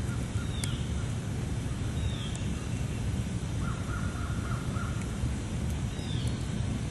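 Birds calling over a steady low rumble: three short falling calls and a rapid trill through the middle, with a few faint sharp ticks that fit a campfire's crackle.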